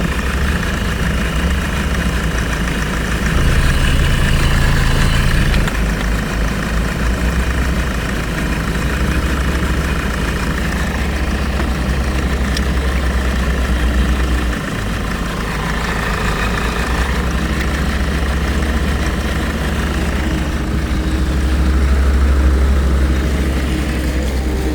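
Honda N22A2 2.2 i-CTDi four-cylinder turbodiesel running at idle on an engine test. It runs steadily, rising a little in level twice and dipping briefly about halfway through.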